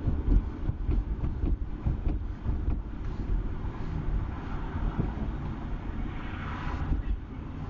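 Low, steady road and engine rumble inside the cabin of a moving Mazda RX-8, which has a rotary engine. A hiss swells briefly about six seconds in.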